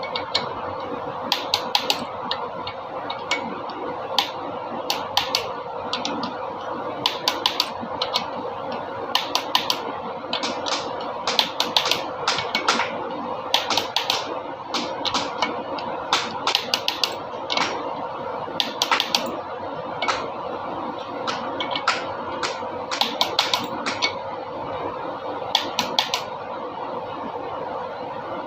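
Irregular sharp metallic clicks and clacks, often in quick clusters of a few, typical of hand tools working on engine parts, over a steady mechanical hum.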